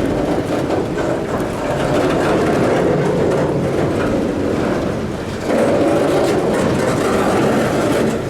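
Freight train cars rolling slowly past on the rails, a steady rumble of wheels on track. The sound dips briefly about five seconds in.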